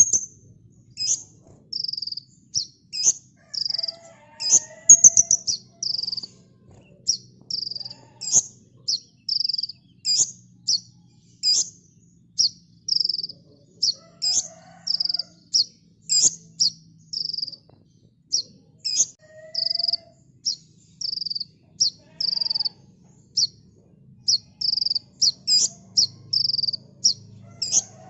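A kolibri ninja sunbird singing steadily: a long run of short, sharp, high chirps and whistled notes, about two a second.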